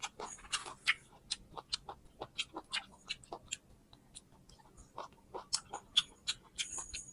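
Close-up chewing of a small ripe mango eaten whole with its skin: irregular mouth clicks and soft crunches, a few a second.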